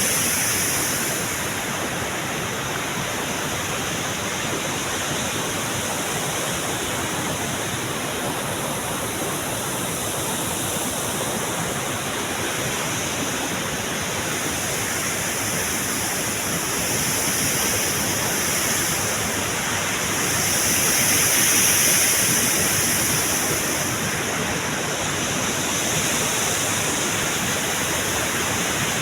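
Waterfall: a steady, loud rush of falling water that swells briefly about two-thirds of the way through.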